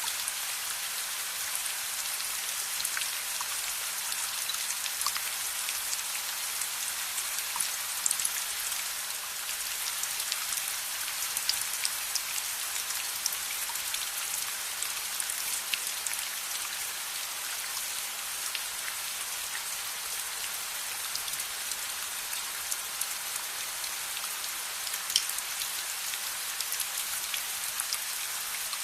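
Steady rain falling, with scattered sharp crackles of a wood fire mixed in.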